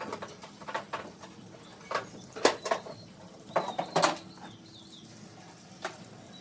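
A series of irregular sharp clicks and knocks, loudest about two and a half seconds in and again around four seconds in.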